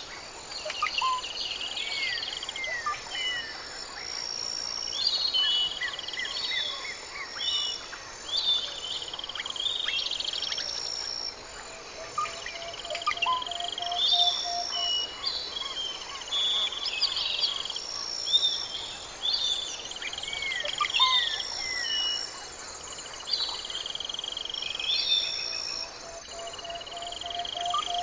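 Mixed chorus of tropical forest birds calling: many short whistles and downward-sliding notes, and a long low whistle twice, once around the middle and again near the end. Steady high trilling of insects runs under the calls.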